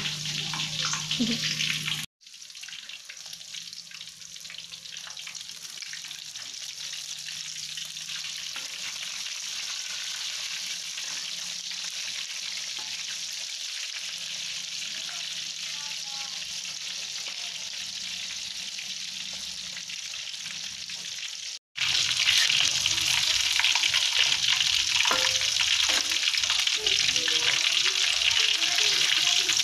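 Chicken pieces deep-frying in hot oil in a black wok, a steady hissing sizzle, turned now and then with a wooden spatula. The sizzle is softer at first and louder in the last several seconds, where small scrapes and taps of the spatula join in.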